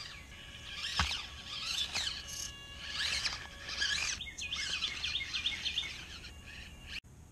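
Wild birds chirping and singing, a mix of short whistled calls with a fast run of repeated notes midway through. A single sharp knock about a second in.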